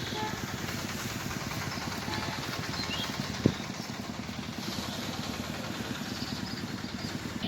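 Bajaj Pulsar 150's single-cylinder four-stroke motorcycle engine idling steadily, with one sharp knock about halfway through.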